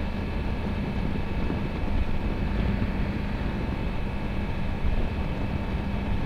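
Kawasaki Versys-X 300's parallel-twin engine running at a steady, even cruise, heard from the rider's seat with wind and road noise underneath.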